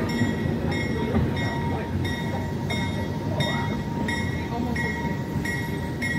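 Passenger train riding at low speed, its steady low rumble under a bell that rings evenly about two to three strokes a second.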